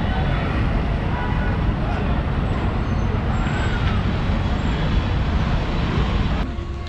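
Busy street noise: road traffic running steadily under indistinct voices, thinning suddenly near the end.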